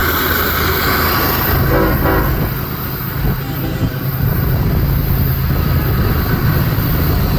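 BNSF diesel train running by with a steady low rumble, and a short air-horn blast about two seconds in.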